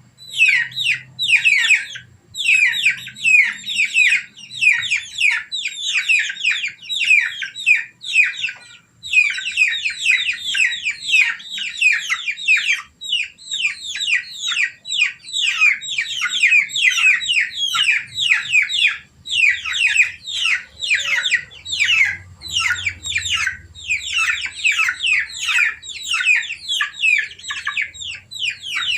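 Baby chicks peeping without pause: many short, high, falling peeps overlapping, with brief breaks about 2 and 9 seconds in.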